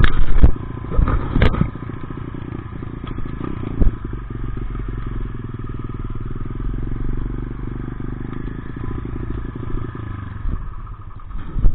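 Dirt bike engine running steadily, with several loud knocks in the first second and a half and again near the end.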